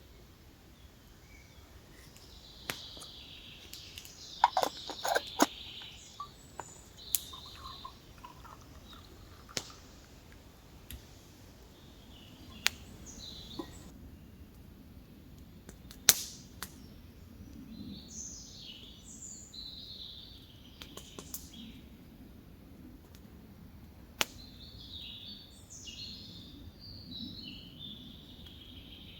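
Birds singing in the woods, with a dozen or so sharp clicks and knocks spread irregularly through it, the loudest a tight cluster about five seconds in and a single crack about sixteen seconds in.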